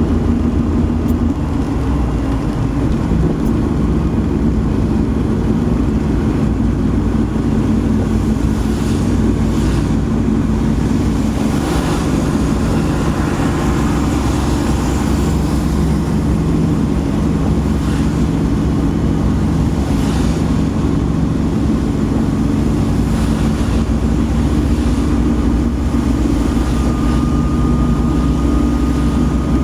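A car driving steadily: a continuous low engine and tyre rumble, with a few brief swishes of hiss now and then.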